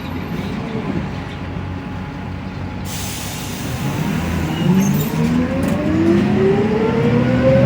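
Mercedes-Benz OM906LA six-cylinder diesel of an O500U rear-engined city bus running low, then a sudden hiss about three seconds in, then the bus pulling away: the engine note and a whine rise steadily in pitch and grow louder through the second half.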